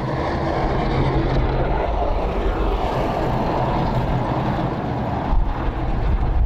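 An engine running steadily with a loud rushing noise, typical of snow-clearing machinery such as a snowblower working through heavy snow.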